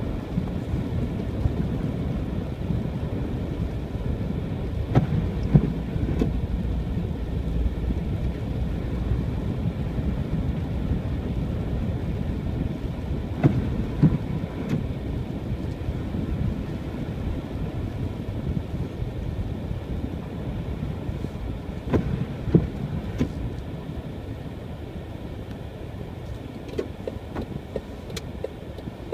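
Car driving on a snow-covered road: a steady low rumble of engine and tyres. A pair of short knocks comes about every eight seconds.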